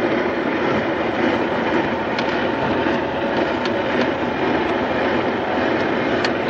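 Steady drone of a truck on the move, heard from inside the cab: the engine and the tyres on the road.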